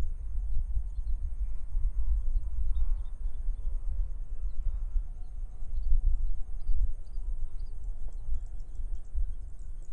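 Rice-field morning ambience: wind buffeting the microphone with a gusting low rumble, under faint short bird chirps and a steady high insect drone.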